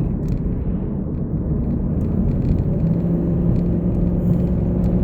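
Road and engine noise inside a moving car's cabin: a steady low rumble, with a level engine hum coming in about three seconds in.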